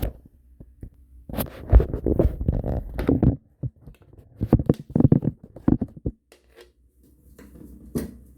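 Workshop handling noise: irregular knocks, clatter and scraping in two bursts of about two seconds each, then a single sharp knock near the end.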